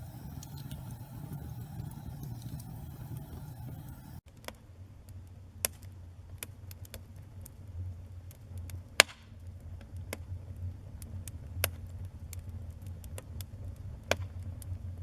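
Wood fire burning in a fireplace: a low steady rumble of flames with sharp crackles and pops from the burning logs. The sound shifts abruptly about four seconds in, after which the pops come more often, the loudest about nine seconds in.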